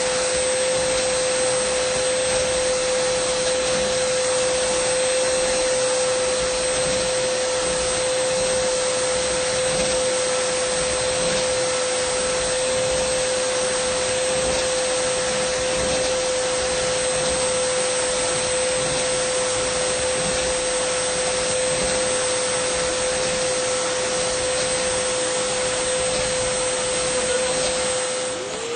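Dyson vacuum cleaner running steadily: a constant whine over a loud rush of air. Right at the end the whine dips briefly in pitch and level, then recovers.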